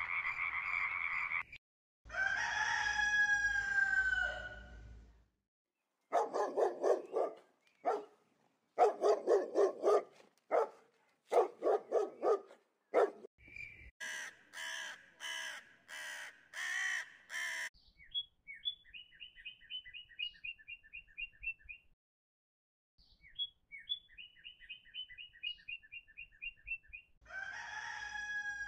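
A rooster crows about two seconds in, a long call that falls in pitch at the end, and crows again near the end. In between come a run of loud repeated calls, a pulsing call, and then rapid trains of short high bird chirps.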